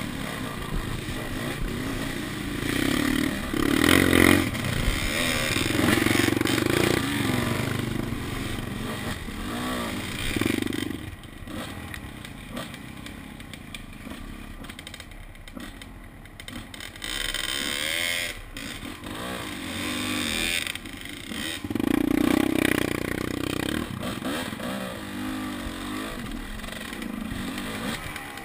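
Enduro dirt bike engines revving in repeated surges and easing off, with a quieter stretch around the middle before they pick up again.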